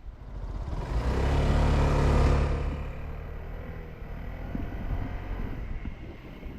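Motorcycle engine running, swelling to its loudest over the first couple of seconds and then easing back to a lower rumble.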